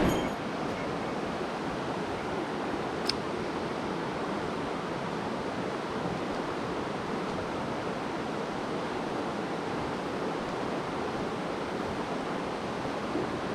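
Mountain stream rushing steadily, with one small click about three seconds in.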